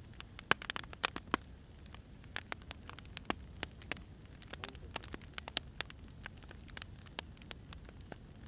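Wood fire crackling: burning firewood gives irregular sharp pops and snaps over a low, steady rumble.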